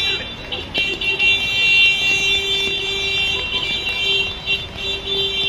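Car alarm sounding continuously: a steady, shrill electronic tone with a lower steady note beneath it, broken only by a few brief dropouts.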